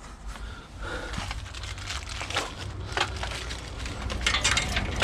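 Rustling and crinkling of packaging and small parts being handled, with scattered clicks and knocks that grow busier toward the end.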